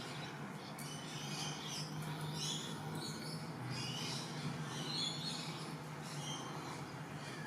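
Faint bird chirping, short high calls every second or so, over a low steady hum.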